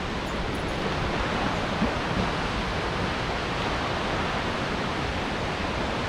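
Baatara Gorge waterfall, a steady rush of falling water heard close up.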